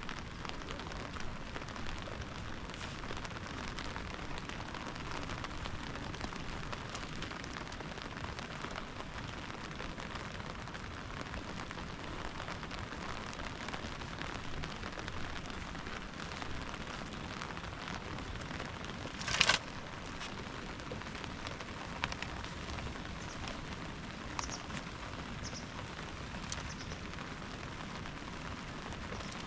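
Steady rain falling, an even hiss with scattered small ticks, and one sharp crack about two-thirds of the way through.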